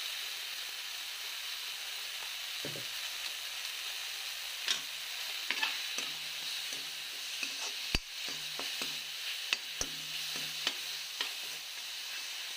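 Chopped greens, potato and onion sizzling in hot oil in a wok, stirred with a steel spoon that scrapes and knocks against the pan. The clicks of the spoon come more often from about halfway in.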